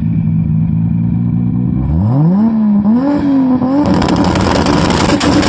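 A car engine running steadily, then revved from about two seconds in, its pitch climbing quickly and then wavering up and down. From about four seconds in it turns rougher and noisier, with many clicks.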